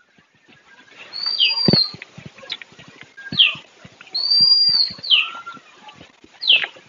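A bird repeating a clear whistled call: a high note held about half a second and a quick falling note, several times about every one to two seconds.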